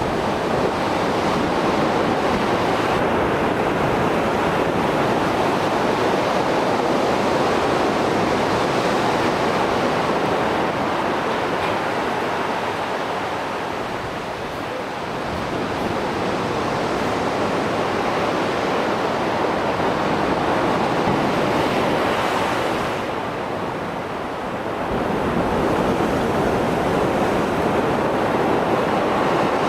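Mediterranean Sea surf after a storm, waves breaking and washing in a continuous rush, easing off briefly about halfway through and again later before surging back.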